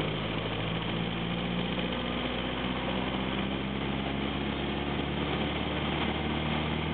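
1934 Morris 10's four-cylinder engine pulling steadily in third gear while the car is under way, heard from inside the car over road noise.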